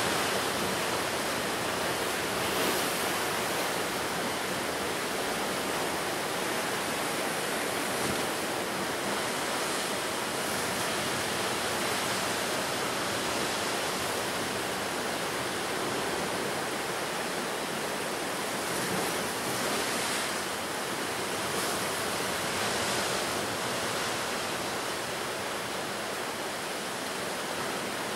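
Ocean surf washing onto the shore: a continuous rushing hiss of breaking waves that swells and eases slightly.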